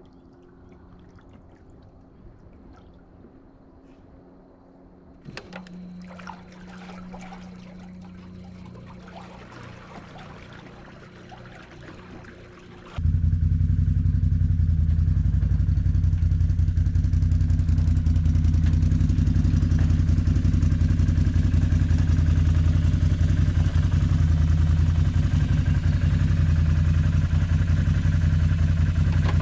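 A faint low hum, then about halfway through a loud engine starts up abruptly and keeps running steadily at a low, even pitch.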